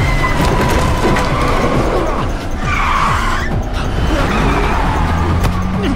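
Car chase sound: car engines revving up and down and tyres squealing, with a screech about three seconds in, over dramatic background music.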